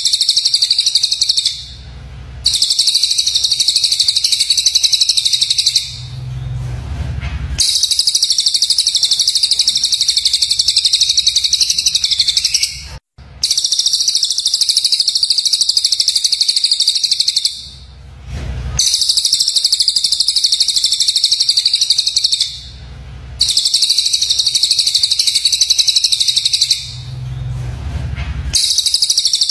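Recorded songbird song of the harsh rapid-fire 'tembakan' kind used as masteran for training other songbirds: dense, high-pitched chattering in runs of a few seconds, separated by short pauses in which a low hum is heard.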